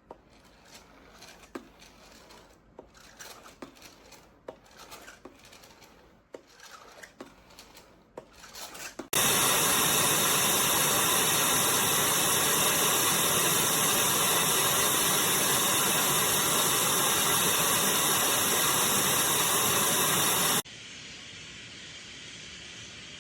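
Light clicks and rubbing from handling the Miele Blizzard CX1 canister vacuum. About nine seconds in, the vacuum's motor comes on abruptly and runs loud and steady with a strong hiss of rushing air. Near the end it drops suddenly to a quieter steady run.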